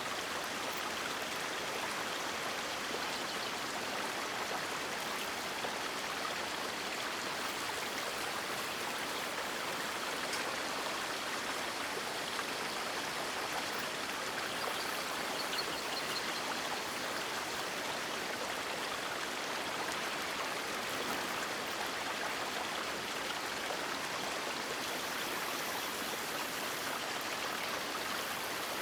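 River water rushing and splashing in a steady, even stream.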